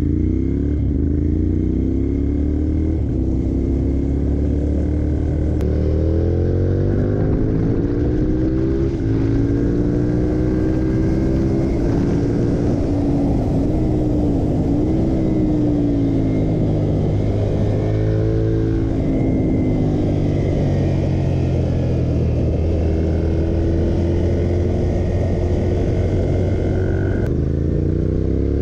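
Ducati L-twin motorcycle engine pulling hard under a rider. The pitch climbs repeatedly and drops back at each shift, with one brief dip and recovery about halfway through.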